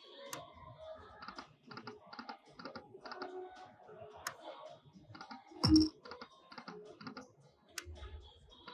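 Lightning Link slot machine reels spinning and stopping: a rapid run of clicks and ticks with faint machine tones. There is a single loud thump a little before six seconds in.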